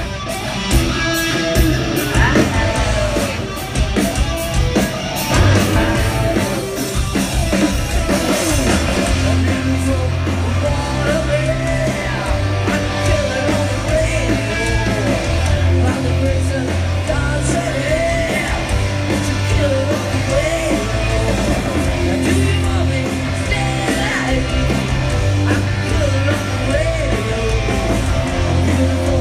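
Live rock band playing loud: distorted electric guitars, bass and drums, with a voice singing over them.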